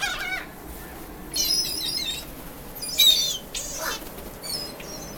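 Seagulls calling in four short bursts of high-pitched squealing cries, the loudest about three seconds in.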